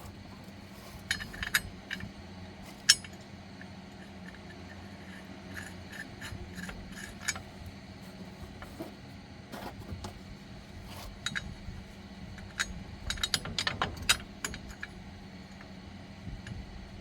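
Scattered metallic clicks and clinks of tools and small metal parts being handled, with a quick cluster of them near the end, over a steady low hum.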